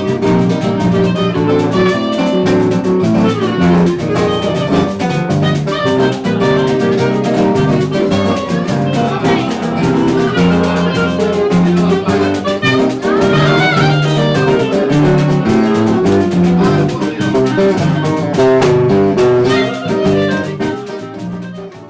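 Instrumental choro played by a small ensemble, with plucked strings under a melody line. The music dies away at the very end.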